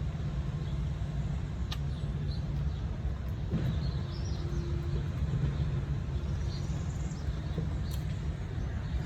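Steady low rumble of city traffic with short bird chirps scattered over it.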